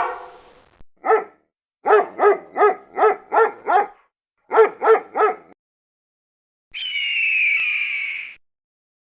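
Dog barking: ten sharp barks in three quick groups, about three a second, followed near the end by one longer, higher drawn-out call that falls in pitch.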